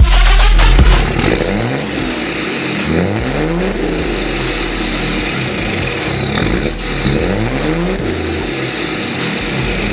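Cummins turbo-diesel engine being revved in several quick blips, its pitch rising and falling with each, over a steady running note. A high whistle, likely the big turbo spooling down, slides down in pitch through the middle and again near the end.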